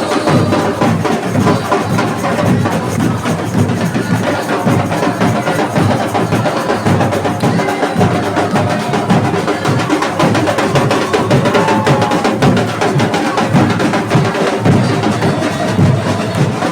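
Samba percussion section (batucada) playing a steady, driving rhythm: deep bass drums under snare drums and high, clacking hand percussion.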